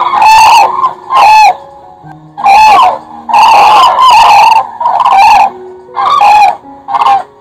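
Crane calling: a rapid series of loud, ringing clangs, about eight calls, with a longer one near the middle.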